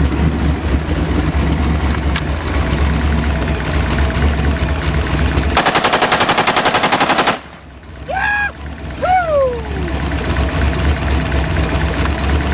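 A hot rod's engine idling, then, a little past halfway, a burst of fully automatic gunfire lasting under two seconds, the shots coming very fast and evenly. Two short falling pitched sounds follow, and the engine idles on.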